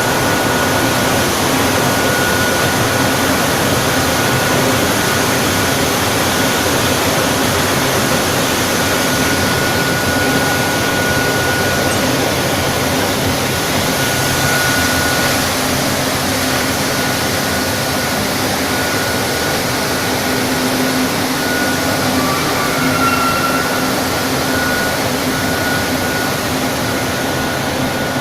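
Steady loud rushing air noise from the blowers of a flat convection glass tempering furnace running, with a faint high whine that comes and goes.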